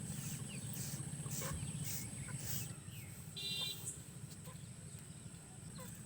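Quiet rural background with scattered faint clicks and a short bird call about three and a half seconds in.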